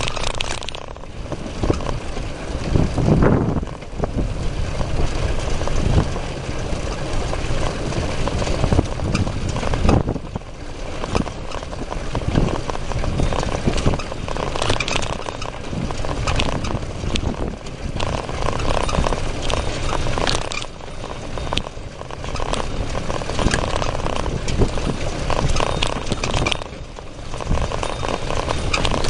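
Riding noise of a bicycle with the camera mounted on its handlebar: a steady rush with frequent small knocks and rattles as it rolls over the path.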